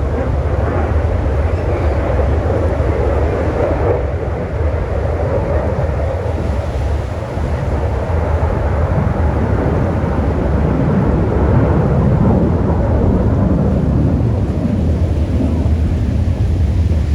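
Aircraft engine noise: a steady, loud, deep rumble.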